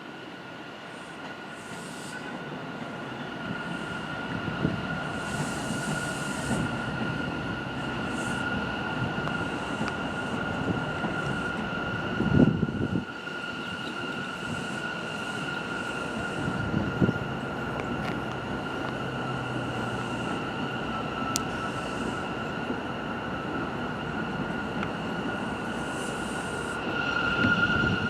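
New York City subway train moving along the tracks, growing louder over the first few seconds, with a steady high-pitched tone held throughout. Two short low thuds come about halfway through.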